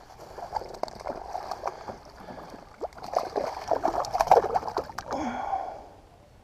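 Water splashing and gurgling at the side of a kayak, with scattered light knocks and clicks. The splashing grows busier in the middle and dies away about five and a half seconds in.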